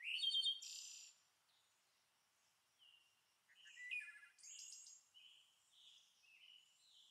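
Birds chirping and trilling in a nature ambience track: a string of short, high calls, loudest in the first second and again about four seconds in.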